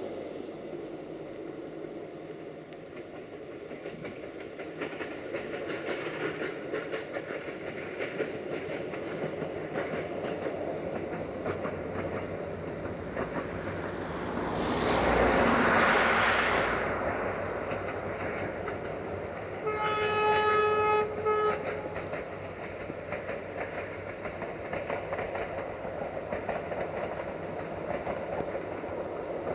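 Passenger train behind a class 82 diesel-hydraulic locomotive running past, its steady rumble and wheel clatter swelling to a peak about halfway through. About two-thirds of the way through comes a locomotive horn blast lasting about a second and a half.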